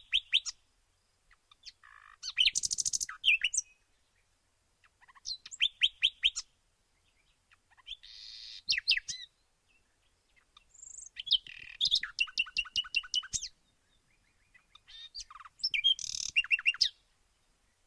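A songbird singing short phrases of rapid, sharp notes, repeated about every three seconds with quiet gaps between.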